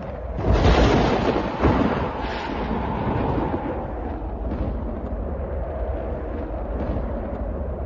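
A thunderclap breaks about half a second in, a second crack follows about a second later, then thunder rumbles on low and steady.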